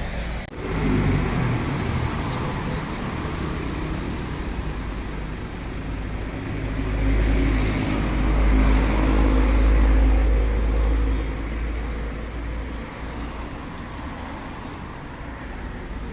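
Toyota Innova's engine running through a stainless-steel 'serigala' (wolf) aftermarket exhaust, giving a soft, low rumble. Partway through it swells louder for a few seconds as the engine is revved gently, then settles back.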